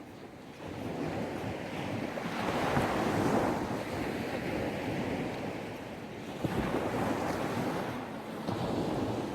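Gentle sea waves breaking and washing up on a sandy beach, with a little wind on the microphone. The surf swells up about two seconds in and again near the middle.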